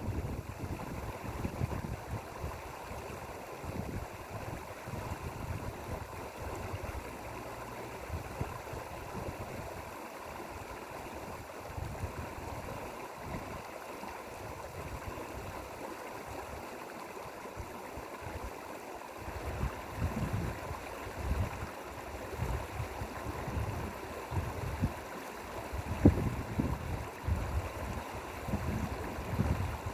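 Mountain valley stream flowing steadily. Low, uneven rumbles come and go underneath, heavier after about twenty seconds.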